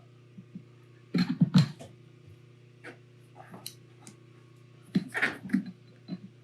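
Two short clusters of knocks and rubbing as a rubber tire is handled and worked onto a Onewheel hub, one about a second in and one near the end, over a steady low hum.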